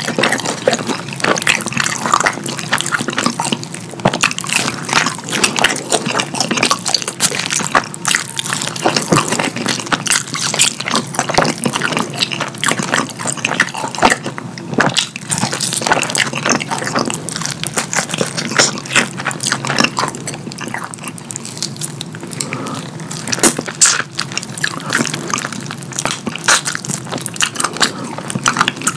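Wet, sticky chewing and lip-smacking of sweet chili–glazed fried chicken, a continuous run of small wet clicks and squelches.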